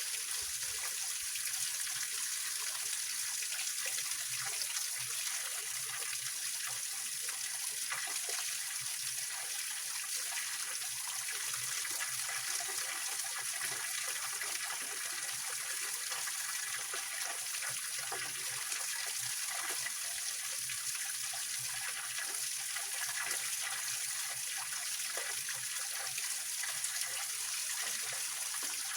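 Small waterfall on a rocky mountain stream, water splashing and running over rocks in a steady, even rush.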